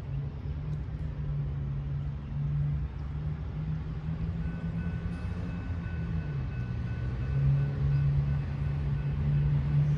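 Diesel locomotive engine running with a steady low drone over a rumble, the drone dipping briefly in pitch partway through and growing louder toward the end.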